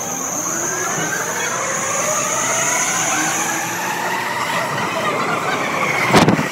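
JR Yamanote Line electric train pulling into the platform: its running noise grows, with a whine in several gliding tones and a steady high tone that stops about halfway through. A brief loud blast of noise comes near the end.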